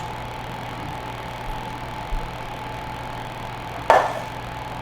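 A steady mechanical hum with a faint whine, such as a kitchen fan or appliance motor, with small ticks and one sharp knock near the end: a utensil striking a dish while filling is smeared on chicken breasts.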